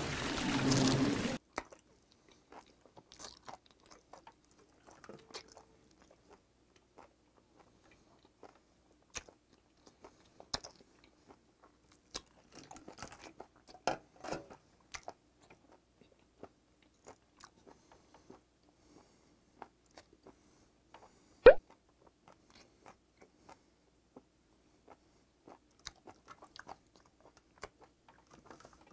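Close-up chewing of raw octopus: sparse wet clicks and smacks from the mouth, with one sharp louder click about two-thirds of the way through. A loud burst of film audio opens the stretch and cuts off abruptly after about a second.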